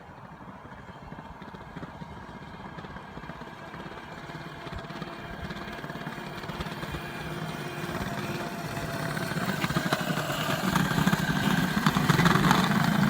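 Children's battery-powered ride-on motorcycle running, its sound growing steadily louder.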